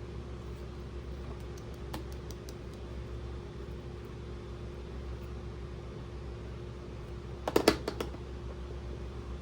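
Light clicks of toy pieces being handled, with a quick cluster of sharper clicks about seven and a half seconds in, over a steady low hum.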